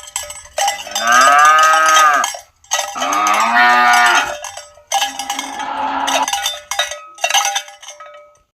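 Cattle mooing three times in a row, long drawn-out moos that rise and fall in pitch, with cowbells clinking and ringing around them.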